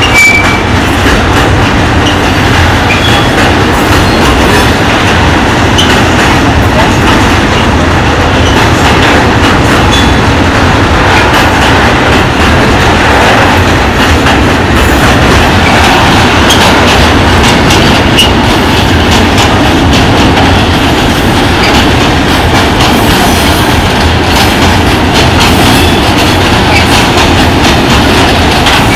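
Freight train of tank wagons rolling past close by: a loud, steady rumble of steel wheels on rail, with a rapid clicking as the wheels run over rail joints.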